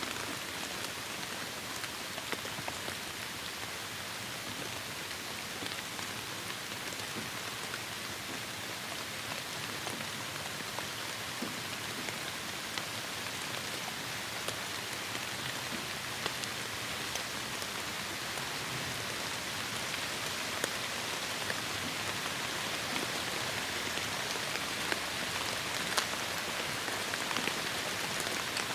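Heavy rain falling steadily, an even hiss with many individual drops ticking on surfaces, growing slightly louder toward the end.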